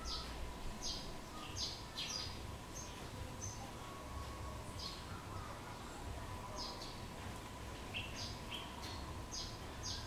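Small birds giving short, high chirps, each a quick downward note, scattered through with a quieter spell in the middle. Underneath runs a faint steady tone and a low rumble.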